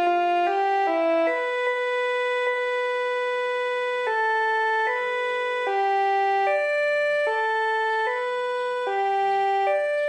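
Synthesized keyboard music: held electronic tones sounding together as chords. The chords change every second or so, more quickly in the second half.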